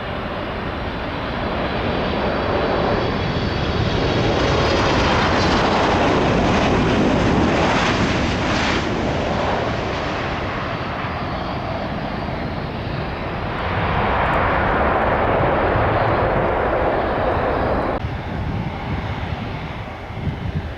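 Jet airliner's turbofan engines at takeoff power, a steady roar that swells to a peak about halfway through, eases, swells again, then drops off abruptly near the end.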